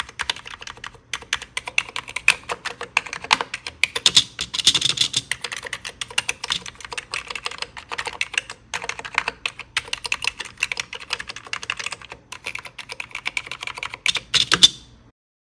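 Fast typing on a vintage computer keyboard: a dense run of key clicks broken by a few short pauses. It ends with a couple of louder keystrokes and stops just before the end.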